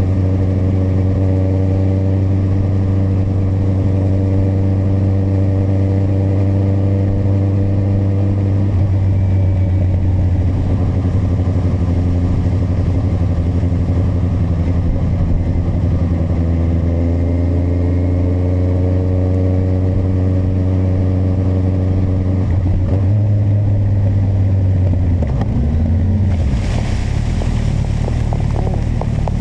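Kawasaki motorcycle engine running steadily under way. The pitch shifts a few times and climbs briefly about two-thirds of the way through. A hiss joins near the end.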